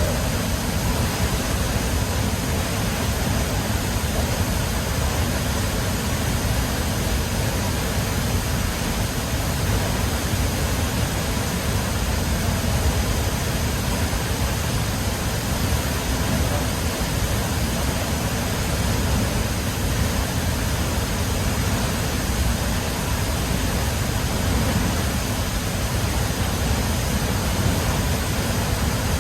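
Catarata Río Fortuna waterfall: a steady, unbroken rush of falling water.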